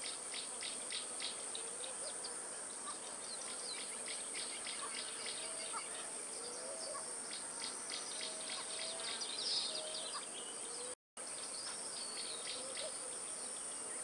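Outdoor nature ambience: a steady high insect drone with runs of quick insect chirps and a few faint bird whistles. The sound cuts out for a moment about eleven seconds in.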